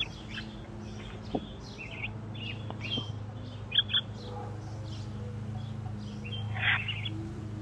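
Backyard birds calling: a scatter of short, high chirps and call notes, with a busier cluster of chirps near the end, over a steady low hum.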